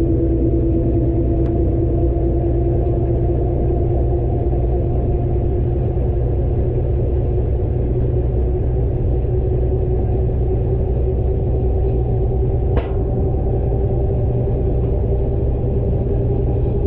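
Washing machine drum spinning fast in its final spin cycle: a steady rumble with a hum that slowly rises in pitch as the spin speeds up, and a single brief tick near the end.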